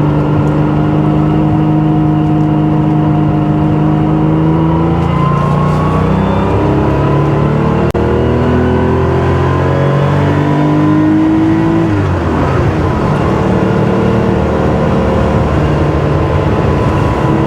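Porsche 911 SC's rebuilt 3.2-litre air-cooled flat-six, through a GT3-style exhaust, pulling on the road. It holds steady revs, then climbs in pitch for several seconds; about twelve seconds in the revs fall away, and it settles into a steady run again.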